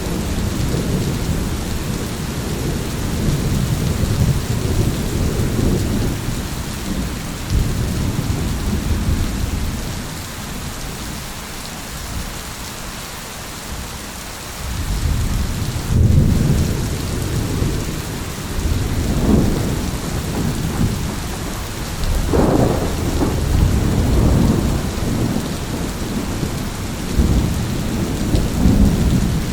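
Steady rain with rolling thunder rumbling low. The thunder eases for a few seconds midway, then builds again, with louder peals about two-thirds of the way in.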